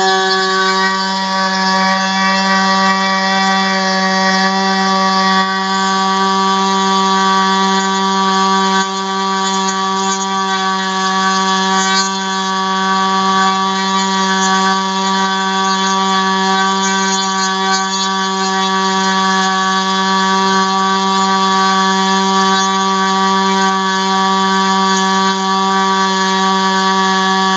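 ASP 25ALL two-stroke model glow engine turning a 10x6 propeller, running steadily at high revs with an unchanging high-pitched buzz.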